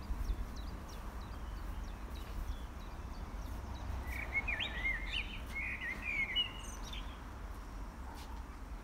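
A songbird sings a short, warbling phrase from about four seconds in until near the end, with faint, high, short chirps before it, over a steady low rumble.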